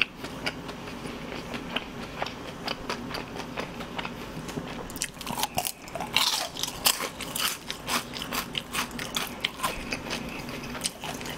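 A person chewing a mouthful of fried chicken, with many small, irregular crunches.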